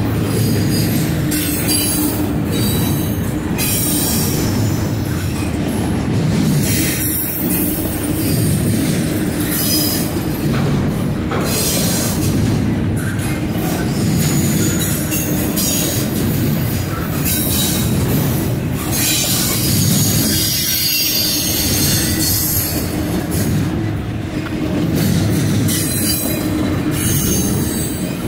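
Double-stack intermodal well cars of a long freight train rolling past close by: a steady loud rumble of wheels on rail, with high-pitched squealing coming and going.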